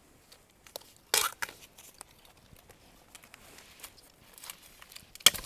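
Scattered crunching and rustling in dry undergrowth while bamboo shoots are foraged, with a louder crackle about a second in and a sharp crack near the end.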